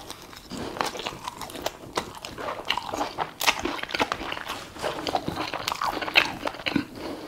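Close-miked chewing and biting: crunchy food being chewed, with frequent small crisp crackles and mouth clicks.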